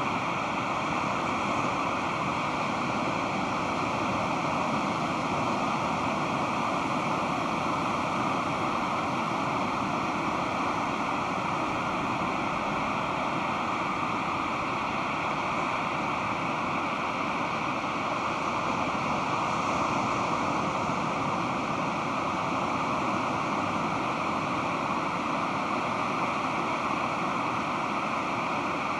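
Pacific Ocean surf: a steady, unbroken wash of waves breaking on the beach.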